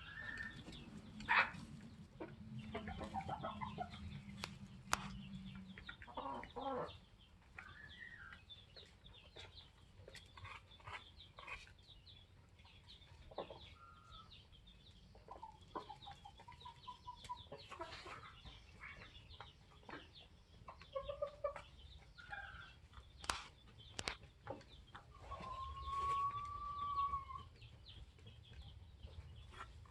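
Flock of Polish chickens clucking and calling, scattered short calls throughout with one longer, drawn-out call near the end.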